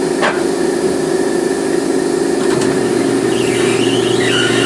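Steady motor hum of the tire-changing machinery while the bottom bead of a motorcycle tire is worked off the rim, with a short click just after the start, a deeper hum joining about halfway through, and a wavering squeak near the end.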